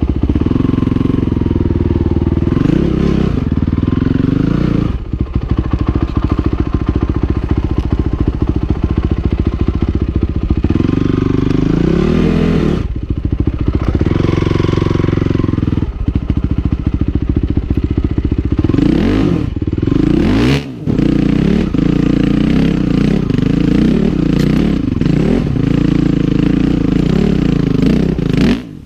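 Honda CRF450R's single-cylinder four-stroke engine running under load at low revs, revved up in short bursts a few times. The sound drops briefly just before two-thirds of the way through, then picks up again.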